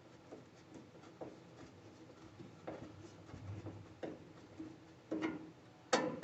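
Faint scattered clicks and rubbing of small bolts being fitted and threaded by hand to mount a washer's lid switch assembly, with one sharper click near the end.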